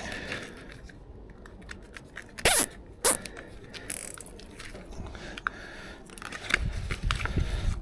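Nylon cable ties zipped tight around steel reinforcement mesh: a run of plastic clicks and rasps with the mesh rattling, two loud sharp rasps about two and a half and three seconds in. A dull low rumble near the end.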